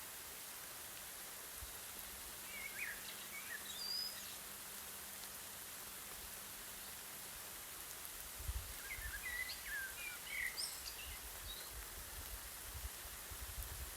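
Steady hiss of light rain falling over a field, with a bird singing two short bursts of chirps, about three seconds in and again near ten seconds. Low gusts of wind rumble through the second half.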